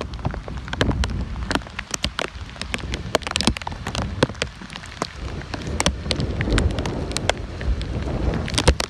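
Tropical-storm rain with large drops striking close to the microphone as many sharp, irregular ticks, over a low rumble of wind on the microphone.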